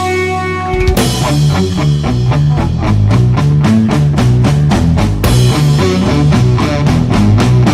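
Rock instrumental: electric guitar over bass, with the drum kit and full band crashing in about a second in and driving on with a fast, steady beat.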